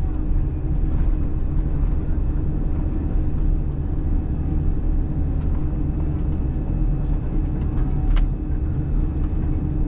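Steady low cabin drone inside a Boeing 787-8 on the ground after landing, with a single sharp click about eight seconds in.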